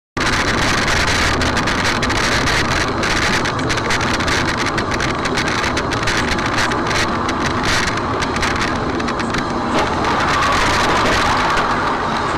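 Car driving, picked up by a dash camera's microphone: steady, loud road and engine noise with some wind, starting abruptly.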